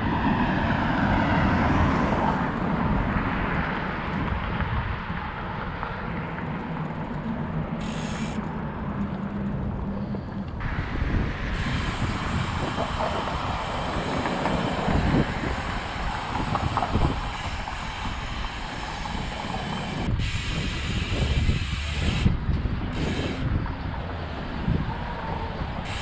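Steady rumble and road noise of a moving vehicle, with a few abrupt changes in the noise along the way.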